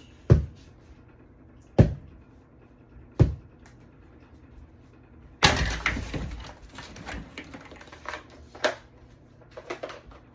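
Three sharp clicks or knocks, about a second and a half apart, then a burst of clattering rattle followed by a few scattered clicks near the end.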